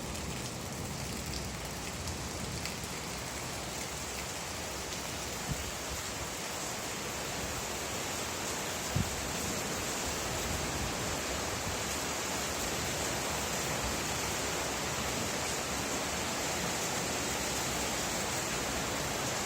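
Steady rain falling, an even hiss with a faint low rumble beneath it and a single sharp drip or tap about nine seconds in.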